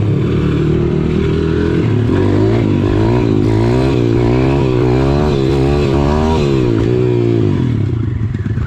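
Pit bike's small single-cylinder engine running hard, its revs rising and falling about twice a second as the throttle is worked, then easing off near the end.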